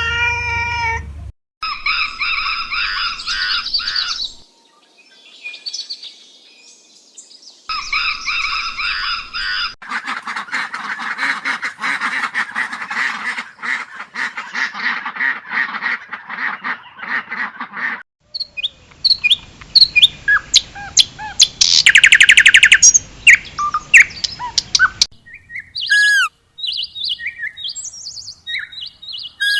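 Birds chirping and calling in a series of short segments that change abruptly several times: pitched, wavering calls, then a dense chorus, then separate chirps with a fast trill in the last third.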